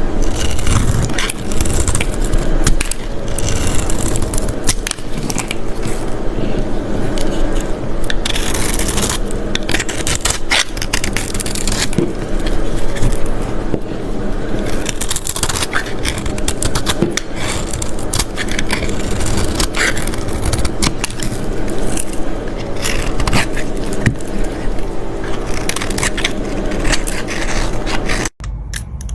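Dry Ivory soap crunching, scraping and crumbling under handling, a dense run of small crackles and clicks. It breaks off sharply near the end.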